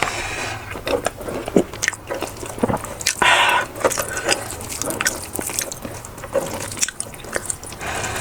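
A person chewing and biting food close to the microphone: wet mouth clicks and squishes, with a louder, noisier sound lasting about half a second roughly three seconds in.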